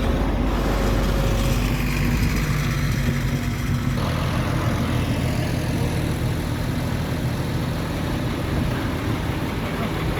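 Vehicle engines, tractors among them, running steadily, with the engine note changing about four seconds in.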